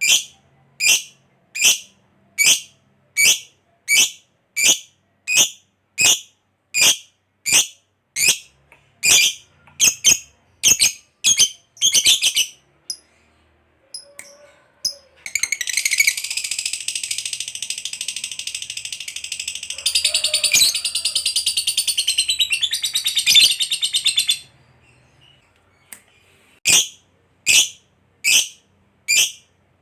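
Lovebird calling: a run of sharp high chirps, a little over one a second and quickening, then a long unbroken rapid chattering trill, the 'ngekek' of about nine seconds, then single chirps again near the end.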